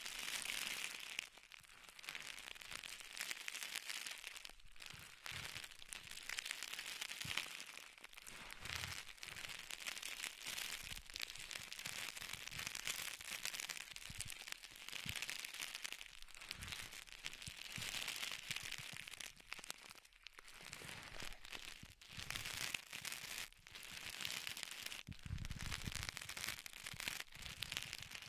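Close-miked ASMR trigger sounds: dense crinkling and crackling full of tiny clicks, swelling and easing in waves every couple of seconds.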